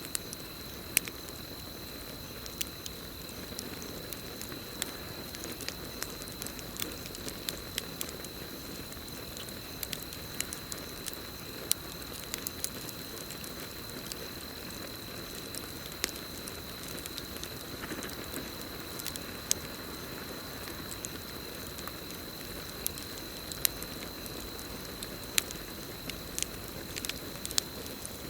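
Wood campfire crackling, with sharp irregular pops over a steady hiss of burning, and a continuous high trill of crickets.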